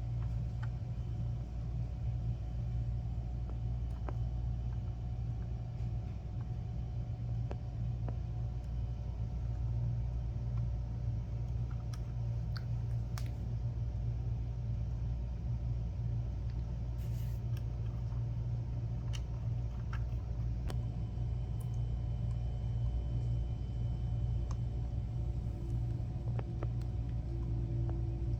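Steady low hum, with a few faint clicks and taps scattered through it.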